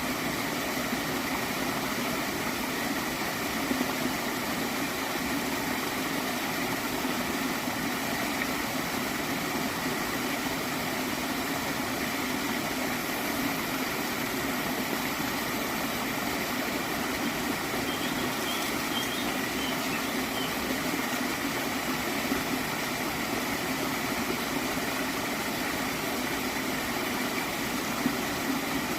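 Gentle water stream gurgling, a steady even flow with no break.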